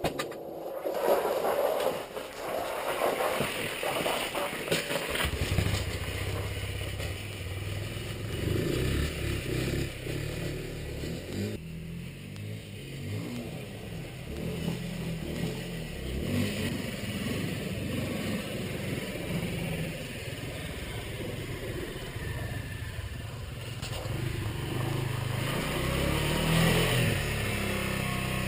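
Derbi Senda 125cc motorcycle engine being cold-started in deep frost: a few seconds of uneven sputtering and clatter, then the engine catches about five seconds in and keeps running, its pitch wandering, with a brief rev near the end.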